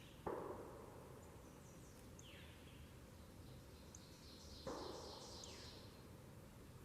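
Quiet ambience with faint, distant bird calls: short downward-sliding notes every few seconds. Two soft rustling noises break in, one just after the start and one about two-thirds of the way through, each fading over about a second.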